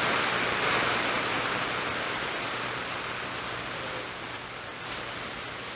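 Steady hiss of static from a CB radio's speaker between transmissions, fading slowly.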